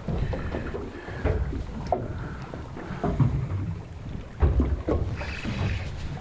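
Wind buffeting the microphone and choppy water slapping against the hull of a small open boat, with irregular knocks on the boat, the loudest a little past the middle.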